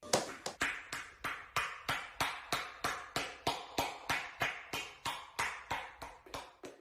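Rhythmic slapping claps of buttocks, about three a second, each sharp with a short decay, gradually getting quieter.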